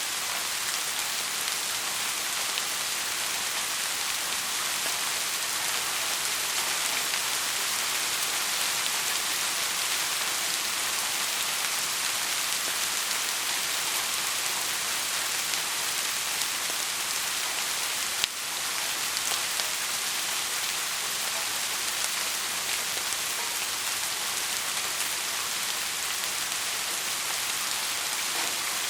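Heavy rain falling steadily, an even hiss of many drops on a surface. A single sharp click sounds about two-thirds of the way through.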